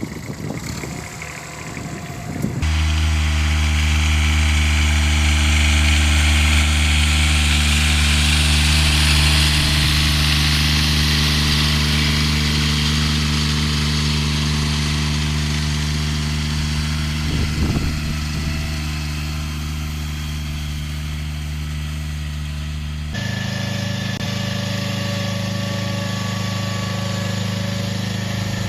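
Mini tractor engines running steadily, with abrupt cuts between clips: a few knocks at first, then a deep steady engine note, switching sharply near the end to a different, higher-pitched engine.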